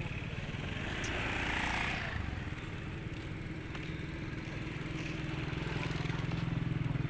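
A small engine running steadily, a low rapid pulsing hum, with a brief higher-pitched sound about a second in.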